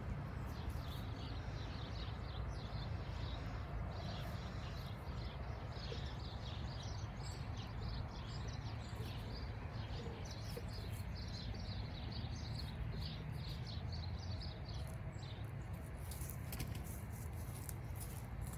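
Many small birds chirping, with short, rapid chirps overlapping throughout, over a steady low rumble.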